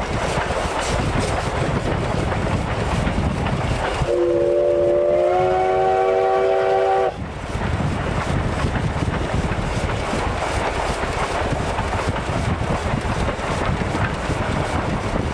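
A train running with a steady rumbling noise; about four seconds in, its whistle sounds a chord of several tones for about three seconds, stepping slightly up in pitch partway through, then cuts off and the running noise carries on.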